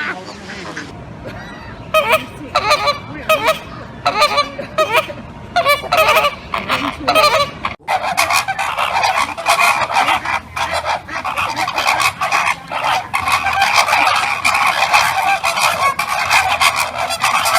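Flamingos honking in goose-like calls: a run of separate honks, then, after a sudden break about eight seconds in, a dense chorus of many birds honking at once.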